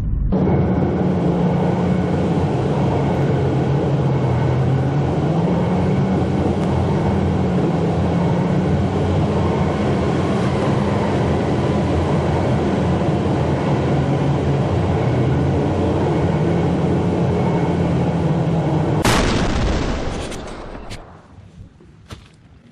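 A vehicle engine running steadily, its low pitch rising and falling slightly. About 19 seconds in it stops with a sharp noise, and the sound fades away.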